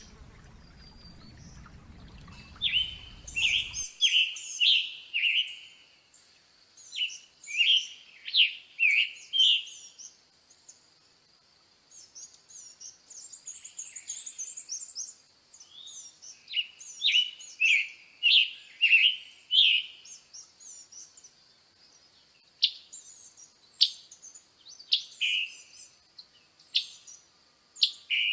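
A small songbird singing: phrases of several short, clear, down-sliding notes, repeated with pauses in between, and a brief higher trill near the middle.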